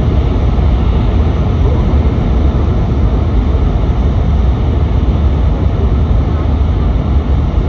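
Steady, loud rumble and rush of a Nishi-Kyushu Shinkansen N700S train running at speed, heard from inside the passenger cabin. The train runs through a tunnel.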